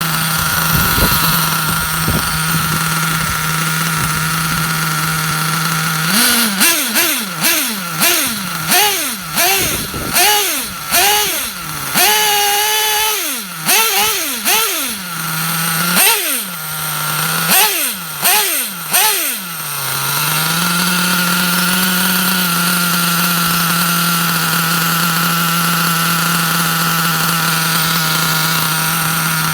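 1/8-scale nitro buggy's Track Star .28 racing engine idling steadily. About six seconds in, it is revved in a string of quick blips, the pitch climbing and falling each time, with one rev held briefly. It then settles back to a steady idle.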